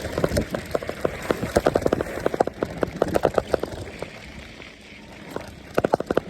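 An e-bike clattering over a bumpy dirt trail: rapid rattling knocks from the bike and its camera mount in dense runs. It eases off for a moment around four seconds in, then comes one more short burst near the end.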